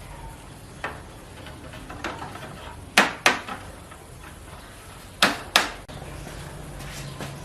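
Sharp knocks or taps, hard objects striking, in two loud pairs about two seconds apart with a few fainter taps before them, over a low steady hum.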